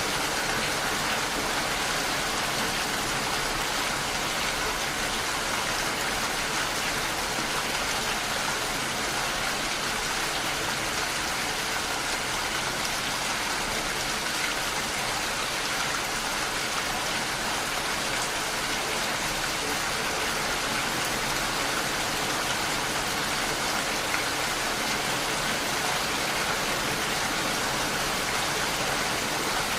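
Steady rainfall, an even hiss of rain falling on surfaces with no changes.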